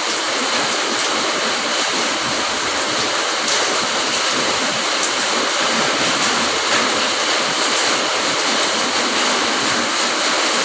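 Steady rain falling: a dense, even hiss with scattered sharper drop ticks.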